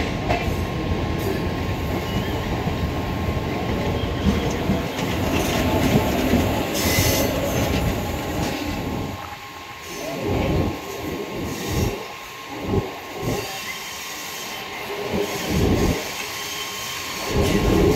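Train running over yard tracks, heard from its open doorway: a dense steady rumble of wheels on rail with a thin steady high whine. About halfway through the rumble breaks up into separate, uneven thuds and clanks as the wheels pass over rail joints and points.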